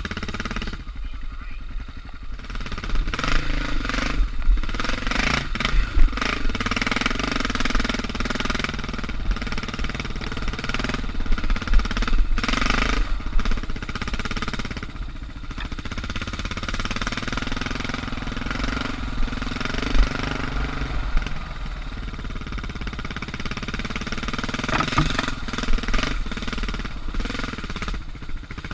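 Suzuki DR650's single-cylinder four-stroke engine running on a trail ride, its pitch rising and falling with the throttle, with a few sharp thumps along the way.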